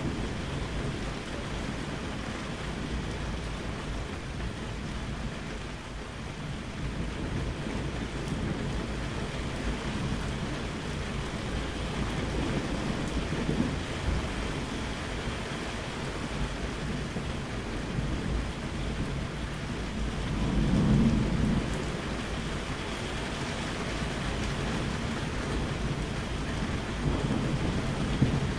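Steady rain falling with low rolling thunder; the loudest rumble swells up about two-thirds of the way through.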